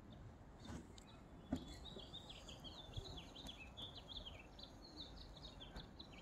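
A songbird singing faintly in the background: a long, quick run of high chirping notes that starts about a second in.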